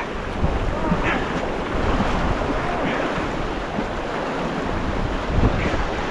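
Fast river current rushing, with wind buffeting the microphone as a low rumble and brief splashes about every two seconds.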